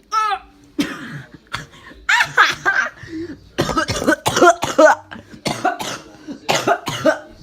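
A person's voice making a rapid run of short cough-like and squawking vocal noises, about a dozen bursts with pitch sliding up and down, loudest in the middle.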